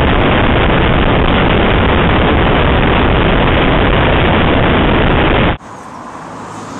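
Loud, steady wind rush on the microphone of a camera riding along on a motorcycle at speed. It cuts off abruptly about five and a half seconds in, leaving quieter road noise.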